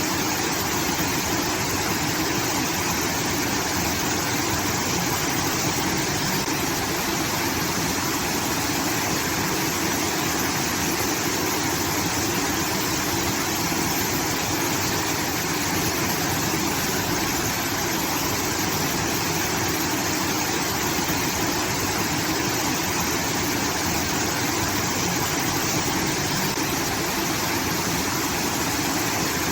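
Water pouring steadily from a rice-field irrigation system, an unbroken rushing that sounds like a waterfall.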